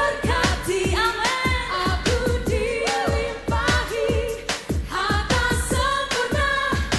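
Indonesian praise-and-worship song: sung melody over a band with a steady drum beat.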